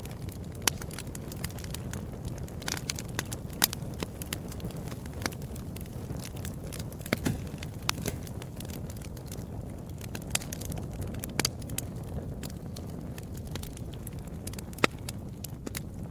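Fireplace fire burning: a steady low rumble of flames with frequent irregular sharp crackles and pops, a few of them louder than the rest.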